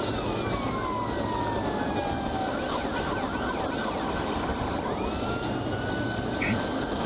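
Police car siren wailing, sliding slowly down in pitch and then rising again about five seconds in, over steady vehicle road noise.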